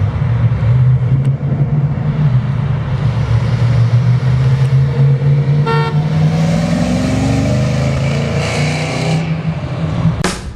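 Big-block Chevrolet V8 of a 1968 Camaro idling with a steady low rumble. A short horn beep sounds about six seconds in, and the engine then speeds up a little and holds.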